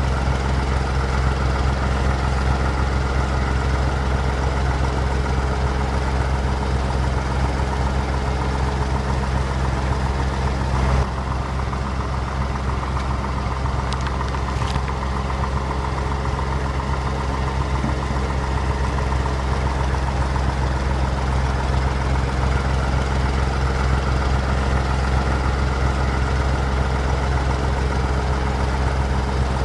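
Engine of a heavy vehicle idling steadily with a low, even rumble, dipping slightly in level about eleven seconds in.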